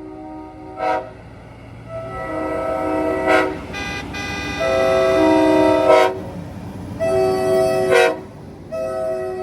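Semi-truck air horns blasting in a series of long, chord-like honks, several horns overlapping. The longest and loudest blast comes about halfway through, and each blast cuts off sharply.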